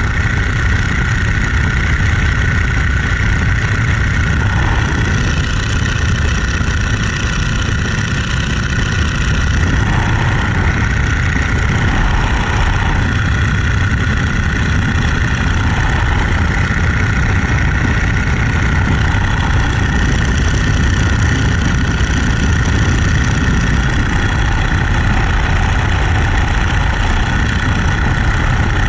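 Boeing-Stearman Model 75 biplane's radial engine and propeller running steadily in flight: a loud, constant drone with a rush of air noise over it.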